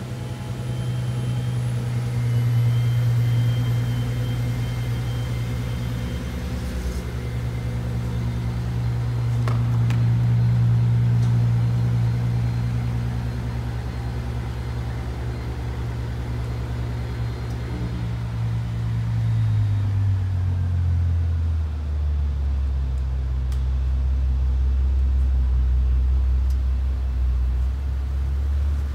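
Bentley Continental GTC's twin-turbo W12 engine idling steadily just after being started. About 20 seconds in, the idle drops to a noticeably lower pitch as the fast idle after start-up settles.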